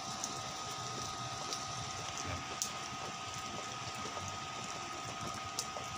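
Steady hiss of light rain with scattered faint drips, under a steady two-note hum.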